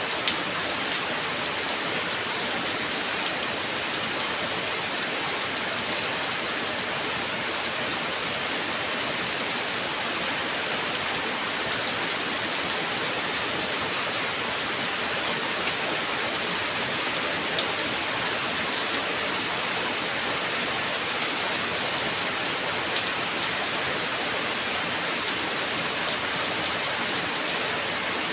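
Steady heavy rain falling and pattering on surfaces, with a few sharper drop ticks.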